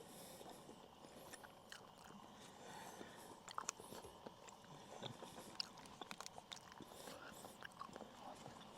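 Near silence with faint, scattered clicks and small crackles.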